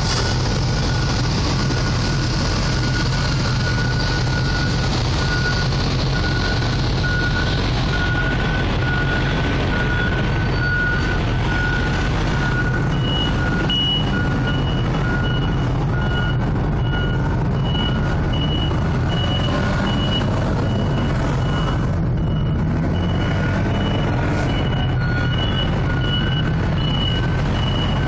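Forklift reversing alarms beeping, about once a second: one beep sounds for most of the time, and a second, higher-pitched one joins about halfway through. A steady low engine drone runs underneath.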